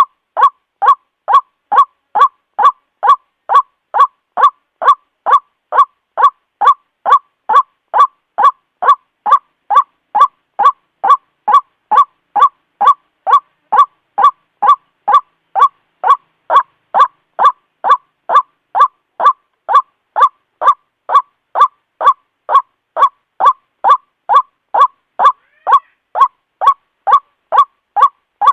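White-breasted waterhen (ruak-ruak) calling over and over, about two short, loud calls a second in an even rhythm.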